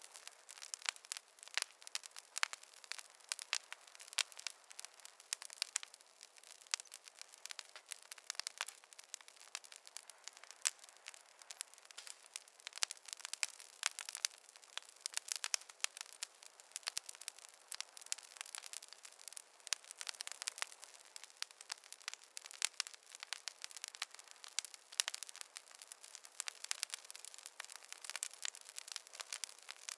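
Wood campfire crackling: a dense, irregular stream of small sharp pops and snaps over a soft hiss.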